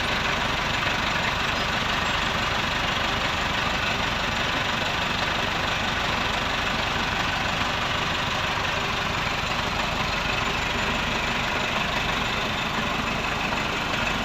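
Engine idling steadily with a rapid, even low pulsing.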